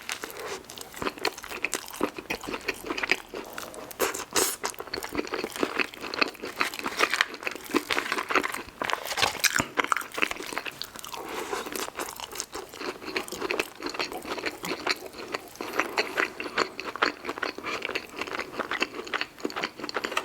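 Close-miked eating sounds: a person biting and chewing crunchy food, with dense irregular crunches and mouth sounds.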